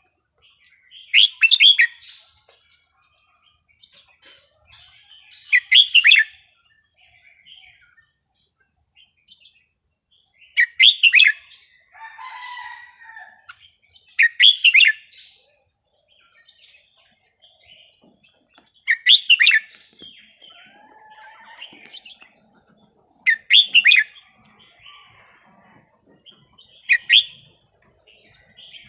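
Red-whiskered bulbul singing short, loud phrases, seven in all, each about a second long and about four seconds apart, with softer calls in between.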